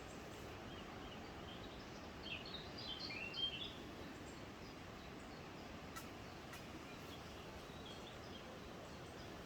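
A small bird chirping in a short run of quick high notes about two seconds in, with a few fainter chirps near the end, over a steady faint hiss of woodland background. Two sharp clicks come in the middle.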